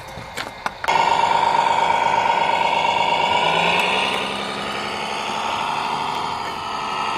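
Engine sound of a remote-control model truck, starting abruptly about a second in after a few clicks, then running steadily with a whine that rises a little in pitch midway.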